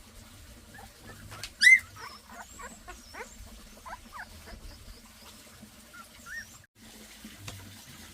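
A small animal or bird squeaking in short high calls that bend up and down, several in a row, with one loud squeak about a second and a half in.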